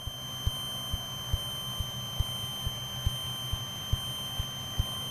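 Squelched aircraft intercom feed: a steady high-pitched electrical whine over a low hum, with sharp faint ticks about twice a second, from electrical interference on the intercom line.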